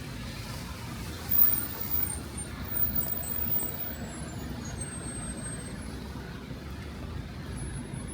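City road traffic rumbling on a wet street. About a second and a half in, a heavy vehicle passes louder, with a sudden hiss and thin high-pitched squealing tones that slide down and fade out a few seconds later.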